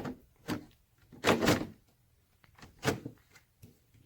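Handling thumps and scrapes of a Corvette C7 fender being offered up and pressed into place on the car body: a few separate knocks, the loudest a longer scrape about a second and a half in.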